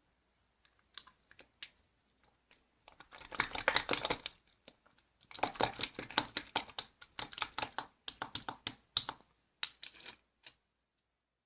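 Pink marbling slime being squeezed and stretched by hand, giving runs of quick sticky clicks and crackles as air pockets pop. A few scattered clicks come first, then denser runs, and the sound stops about a second before the end.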